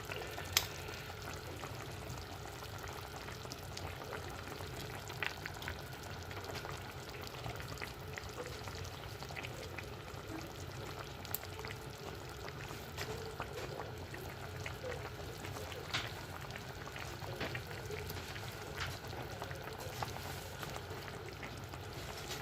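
Meat and potato rounds cooking in a tajine: a steady sizzle of frying with scattered small pops and crackles.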